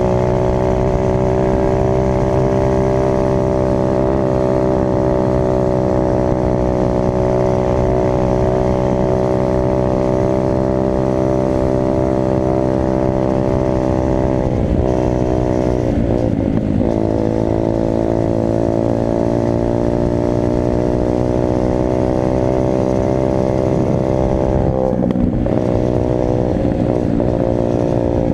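Dirt bike engine running hard at steady revs. The pitch dips and climbs back twice as the throttle is eased off and reopened, once about halfway through and once near the end.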